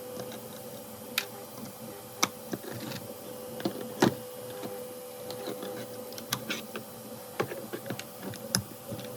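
Irregular small clicks and taps of a screwdriver and M3 screw working into 3D-printed plastic parts, with a steady background hum.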